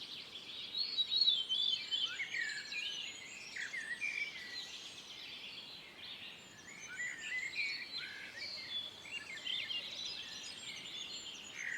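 Several small birds singing and calling together: many short chirps and quick whistled notes overlapping throughout, over a faint steady hiss of outdoor ambience.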